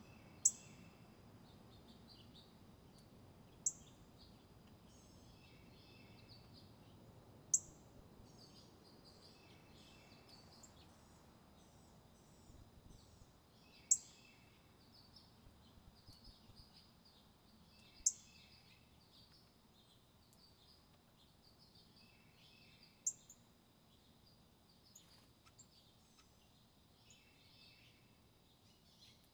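Small songbirds calling: a sharp, very short high chip note repeated about every four to five seconds over fainter twittering and chirping, with a faint steady high tone behind.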